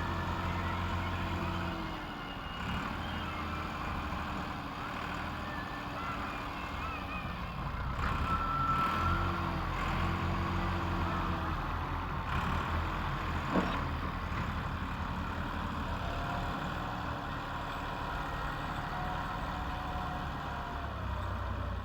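Tractor engine running hard under load, its pitch repeatedly rising and falling as the throttle is worked. A single sharp knock comes a little past the middle.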